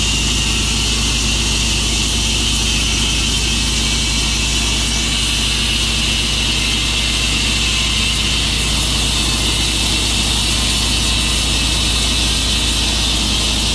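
Tru-Cut sawmill running steadily while its saw cuts through a maple log: a steady engine drone under a constant high hiss of the blade in the wood.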